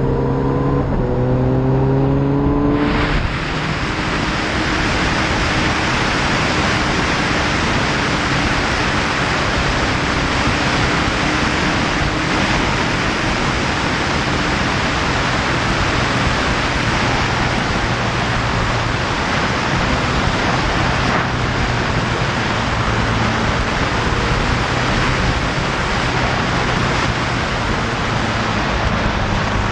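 Motorcycle engine accelerating with rising pitch for about three seconds, then wind rushing over the microphone covers it as the bike holds speed, the engine a steady note underneath.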